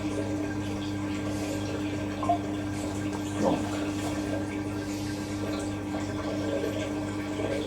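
Hoover DynamicNEXT washing machine on its wool cycle: water running through the machine over a steady low hum. About three and a half seconds in there is one short sound that falls in pitch.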